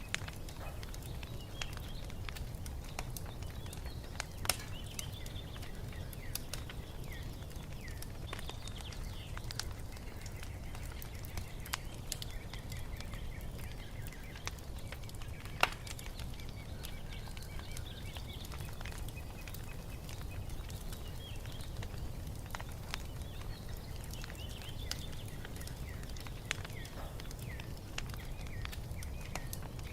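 Wood fire crackling, with scattered sharp pops over a low steady rumble, one pop louder than the rest about halfway through. Songbirds chirp faintly in the background.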